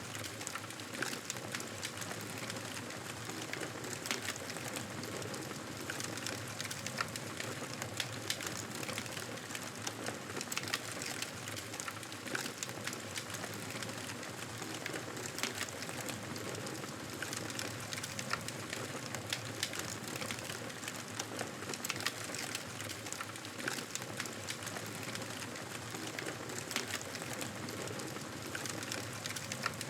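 Fireplace fire crackling: a steady hiss dotted with frequent small sharp pops and snaps.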